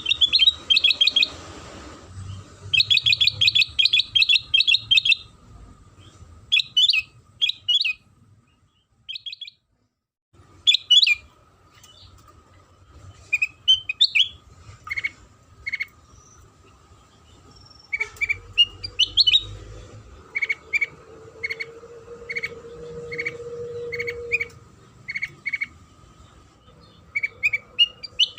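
Kutilang sutra calling: fast chattering trills and scattered sharp chirps, then a run of short, evenly spaced notes. This is a lure call played to set other kutilang singing. A faint steady hum runs underneath.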